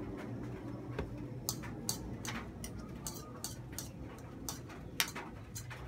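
Eating sounds: an irregular run of wet clicks and smacks from chewing a mouthful of pancit canton instant noodles, starting about a second and a half in.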